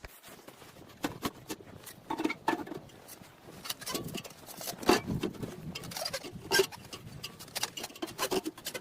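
Irregular light taps and knocks, a few a second, with two louder knocks about five and six and a half seconds in.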